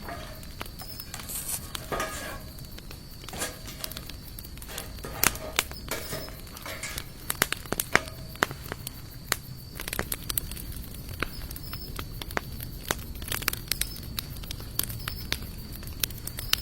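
Campfire of sawtooth oak and mixed hardwood logs crackling, with irregular sharp pops, a few of them loud.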